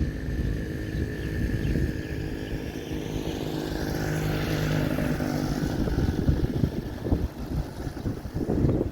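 Motorcycle engine running steadily while riding, with road noise; a rush of noise swells and fades around the middle.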